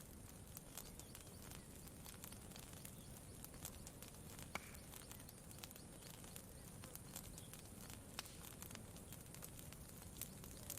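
Faint campfire crackling: irregular small pops and snaps, the loudest about halfway through, over a soft steady low background noise.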